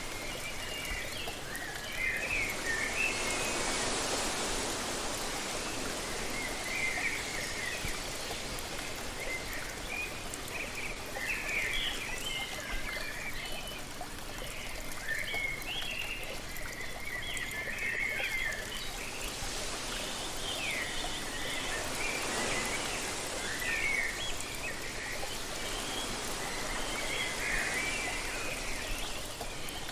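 Waterfall rushing steadily under a busy chorus of short bird chirps and twitters. The rush swells twice, a few seconds in and again about two-thirds through, as gusts of wind pass.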